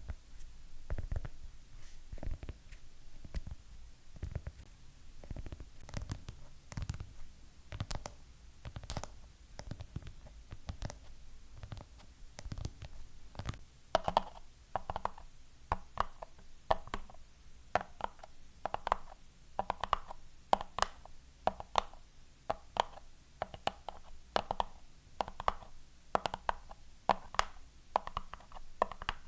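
Fingernails tapping on hard objects in a steady run of separate taps. In the first half the taps are deep thuds; from about halfway they turn brighter and quicker, each with a short pitched knock.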